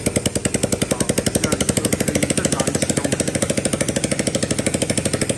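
Tearoff SZ 60cc dirt bike's single-cylinder four-stroke engine running steadily at idle, with freshly adjusted valve clearance: a quick, even putter of about twelve beats a second.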